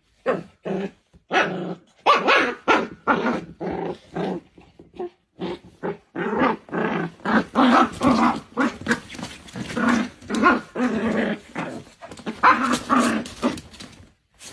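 A dog growling and barking in a long string of short calls, about two to three a second, with a few brief pauses.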